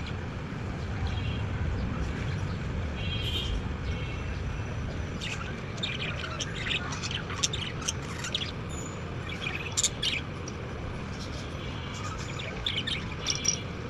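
Pet budgerigars chirping and chattering in short, scattered high calls and warbles, over a steady low rumble.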